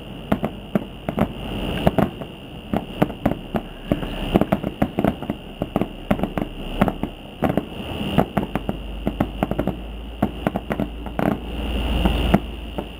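Fireworks heard from afar, going off in quick, irregular pops and crackles several times a second, over a steady high-pitched hum; a low rumble swells near the end.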